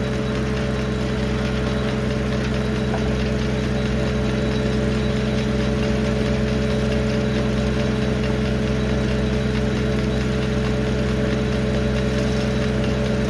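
1952 Farmall H tractor's four-cylinder engine running at a steady speed, driving the sawmill, with no cut under way.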